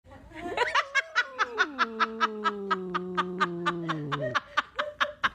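Laughter in quick, even bursts, about four or five a second. Under it, a long pitched voice slides slowly downward and fades out about four seconds in.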